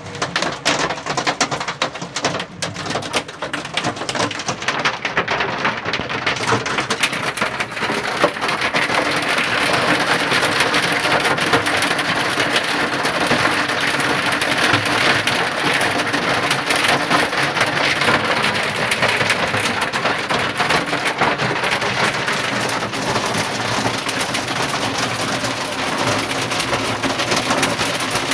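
Heavy rain pelting down: a dense hiss full of small sharp drop impacts, building over the first several seconds and then holding steady.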